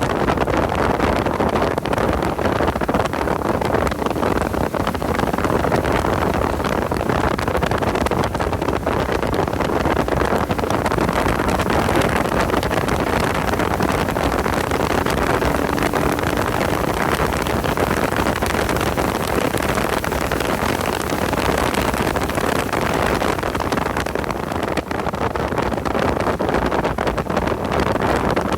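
Porsche 986 Boxster's flat-six engine running hard at speed, mixed with heavy wind noise on the microphone.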